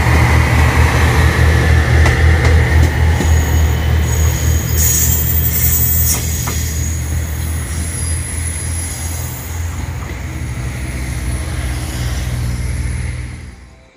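A train running past on the track: a loud, low, pulsing rumble with a high hiss over it. It fades gradually through the second half and cuts off abruptly near the end.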